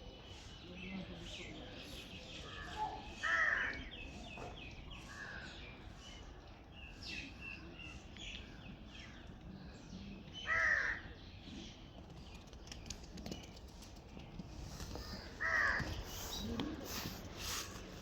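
Three loud, short, harsh animal calls, each falling in pitch, spaced several seconds apart, over a background of frequent faint high chirping.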